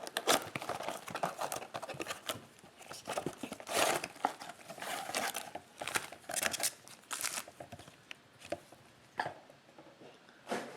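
Trading cards and their packaging being handled: quick, irregular rustling and crinkling, dense at first and thinning out near the end.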